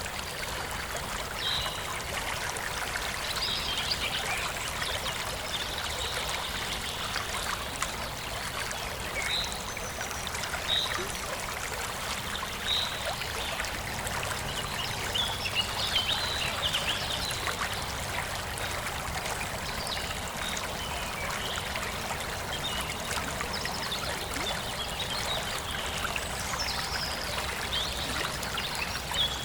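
Forest stream flowing and trickling steadily, with small birds chirping briefly now and then in high, short calls.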